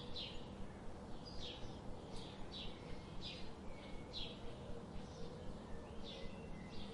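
Small bird chirping: short, sharp chirps that sweep downward in pitch, repeated about once a second, over a steady low background hum.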